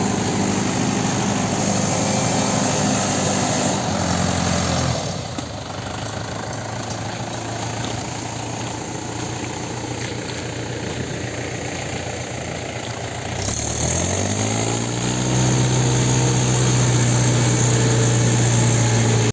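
Mahindra tractor's diesel engine running. It drops to a lower, quieter idle about five seconds in, then revs up around fourteen seconds and holds at the higher speed.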